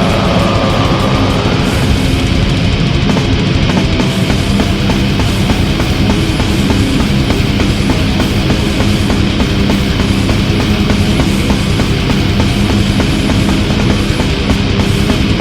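Heavy metal music: a dense, loud, unbroken wall of distorted guitars, bass and rapid drumming.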